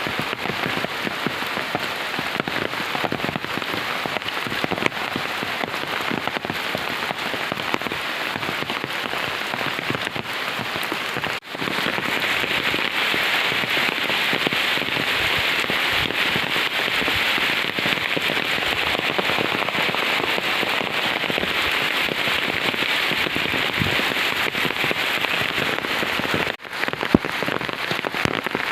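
Heavy monsoon rain pouring steadily, a dense hiss of drops on surfaces. It cuts out for an instant about a third of the way in and comes back with a harsher hiss, then cuts out for an instant again near the end.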